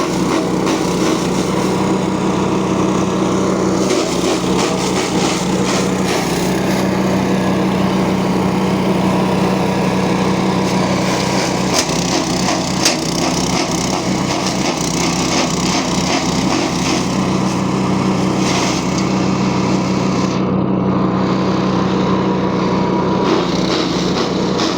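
Petrol engine driving a feed chopper (chaff cutter), running steadily at a constant speed, with dense crackling and snapping from fodder being chopped by the blades.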